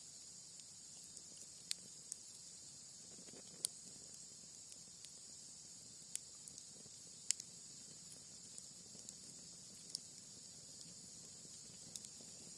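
Cherry-wood campfire crackling: scattered sharp pops, a few of them louder, over a steady high chirring of night insects.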